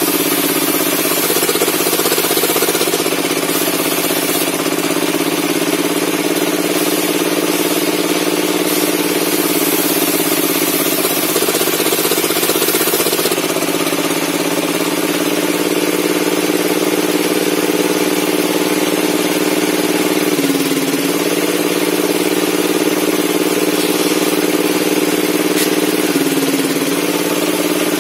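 Log-cutting table saw running steadily with a loud, even hum, its pitch dipping briefly twice in the last third as the blade takes load.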